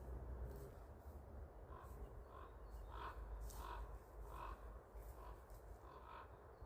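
Common raven calling faintly: a quick series of short, repeated calls that begins about two seconds in.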